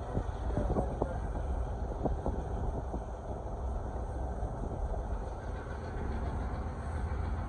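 Passenger train running along the track: a steady rumble with a few short knocks in the first few seconds.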